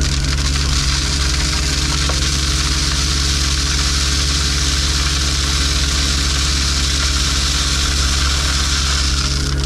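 Engine of heavy construction equipment running steadily, with a loud even hiss over it.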